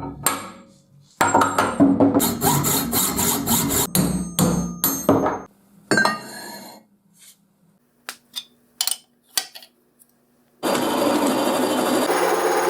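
Hand-tool metalworking on a section of railroad rail: a few seconds of rough scraping, rubbing and knocking of tools on steel, then a few separate sharp ticks, then a steady machine noise starting about ten and a half seconds in.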